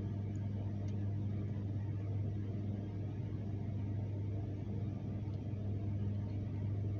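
A steady low hum with a faint hiss behind it, unchanging throughout; no animal call.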